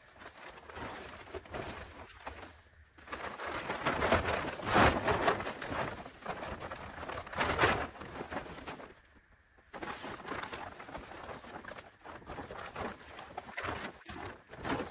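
Tarp fabric rustling and crinkling as it is handled and spread out, in uneven spells, loudest about four to five seconds in and again near eight seconds, with a short quiet pause after that.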